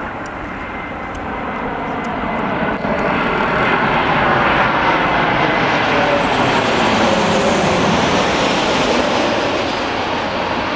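Ryanair Boeing 737-8200 MAX's CFM LEAP-1B turbofans as it comes in to land close by, building to a loud jet rush with a whine that falls in pitch as the aircraft passes.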